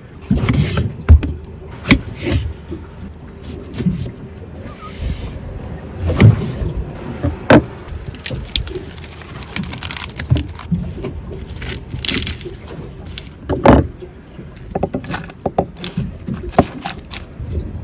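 Irregular knocks, clunks and clatter of hard objects being handled, some of them sharp and loud, over a low background rumble.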